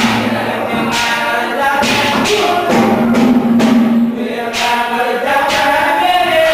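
Haryanvi ragni folk song: a voice singing over a steady held note, with regular drum strokes.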